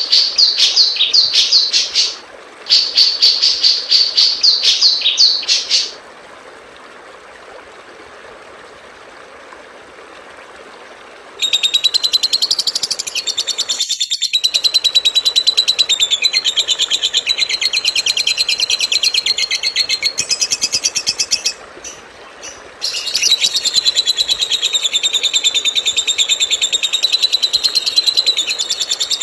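Songbird song from a masteran (tutor) recording. First comes a quick run of repeated high chirps, broken once briefly. After about six seconds it pauses for about five seconds, leaving only hiss. Then a fast, dense, high-pitched trilling chatter starts and carries on with one short break.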